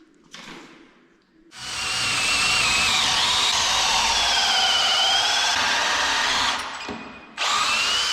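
Electric power drill running for about five seconds with a wavering whine, winding down, then a second short burst that spins up in pitch near the end.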